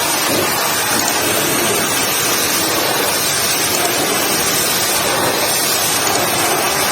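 Pressure washer spraying water onto a mud-caked truck: a steady, even hiss of water.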